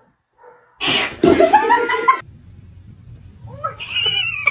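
Cat vocalising: a short noisy burst about a second in, then a long meow that rises and falls. Near the end come a few higher-pitched mews.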